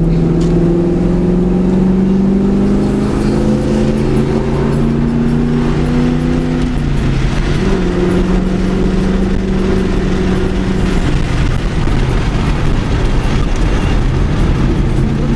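1999 Mustang GT's 4.6-litre V8 pulling under acceleration, its pitch climbing slowly, then dropping at an upshift about seven seconds in. It holds steady and falls again to a lower, even pitch near the end as the car eases off.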